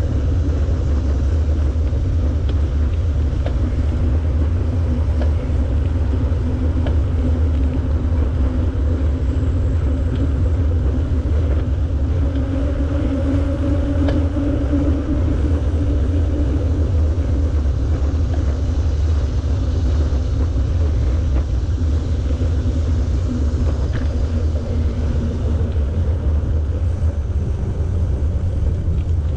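Bicycle riding: a steady low rumble of wind buffeting the microphone and tyres rolling along the path, with a few faint ticks.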